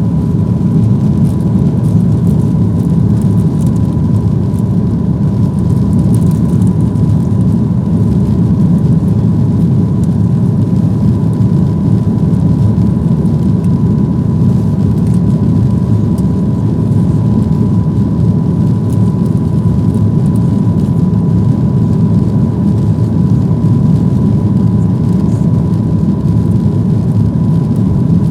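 Boeing 737-800 cabin noise: the CFM56 jet engines running steadily, with a low, even rumble and a thin steady whine.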